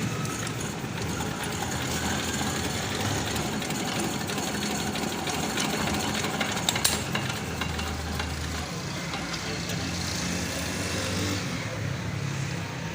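Old Petter diesel engine idling steadily, with one sharp tap a little past halfway.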